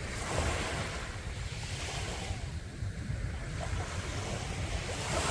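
Sea waves breaking and washing up a sandy beach, swelling shortly after the start and again near the end, over a low rumble of wind on the microphone.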